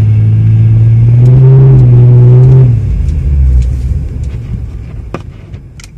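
Infiniti G35x's 3.5-litre V6 heard from inside the cabin, a steady hum at around 2,000 rpm that rises slightly in pitch, then drops away about three seconds in to a low rumble that fades out. A few sharp clicks near the end.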